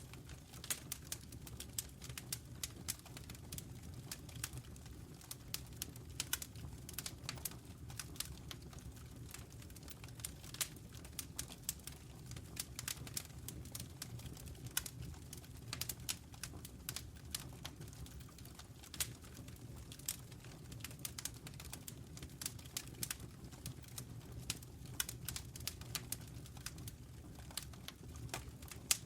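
Wood fire burning in a fireplace: frequent, irregular sharp crackles and pops from the burning logs over a steady low rumble of the flames.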